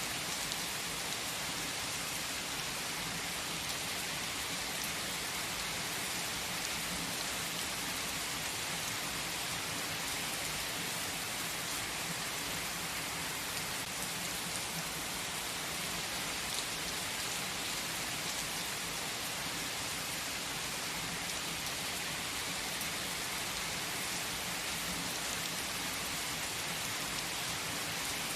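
Steady heavy rain falling, a dense even hiss of drops on surfaces with no change in strength.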